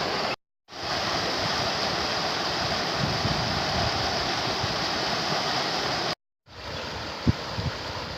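Heavy rain falling in a steady hiss, cutting out to silence twice for a moment, about half a second in and again about six seconds in.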